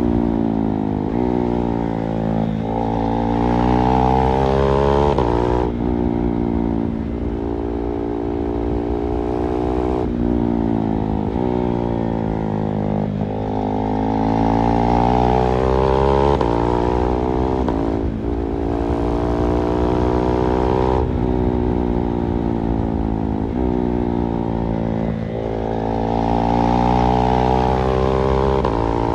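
KTM 390 Duke's single-cylinder engine under way, its revs climbing in short runs and dropping sharply at each gear change, holding steadier between spells of acceleration.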